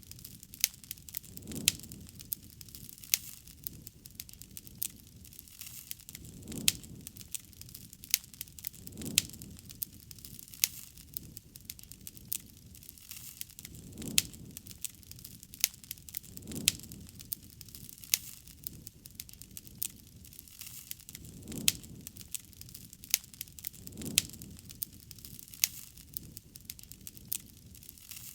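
Campfire burning, the wood crackling with frequent sharp pops. A soft low puff of flame comes every few seconds.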